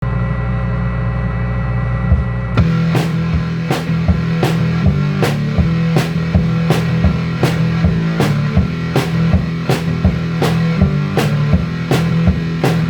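Heavy rock instrumental intro: sustained distorted guitar and bass for about two and a half seconds, then a full drum kit comes in with a steady beat under the riff.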